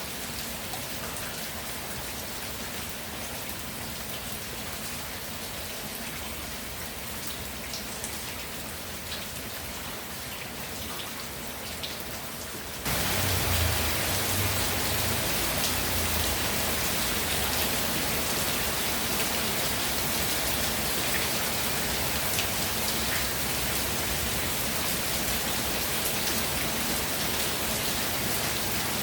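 Steady rainfall, an even hiss with scattered drip ticks. About halfway through it abruptly becomes louder and stays at that level.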